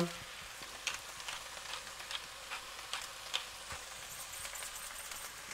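Chicken pieces with fried onion and ground walnut sizzling in a pot over high heat: a steady frying hiss with scattered small crackles.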